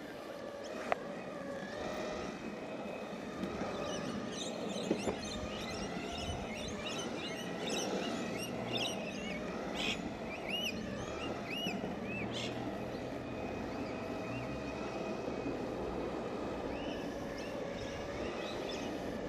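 Exway Flex Pro V3 electric skateboard riding: the motors give a steady whine over the rumble of the wheels rolling on asphalt. Birds chirp repeatedly from about four to thirteen seconds in, and there is one sharp click about a second in.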